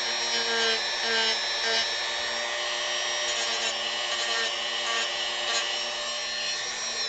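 Dremel rotary tool running at steady speed, its spinning bit grinding and sanding against wood, with a constant motor whine under a rasping scrape.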